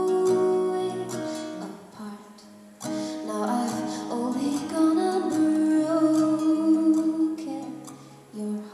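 Live acoustic guitar song: strummed chords that thin out about two seconds in and come back strongly, with a female voice holding wavering sung notes over them.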